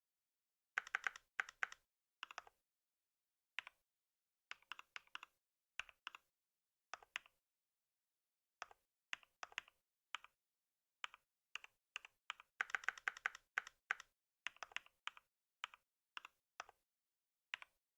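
Typing on a computer keyboard: separate key clicks in irregular bursts with short pauses between them, starting about a second in, with the quickest run of keystrokes about two-thirds of the way through.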